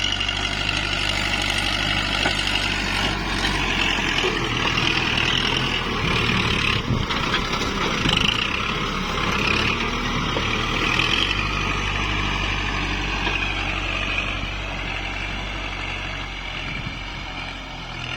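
Kubota MU4902 tractor's diesel engine running steadily under load while plowing hard paddy soil, easing off over the last few seconds.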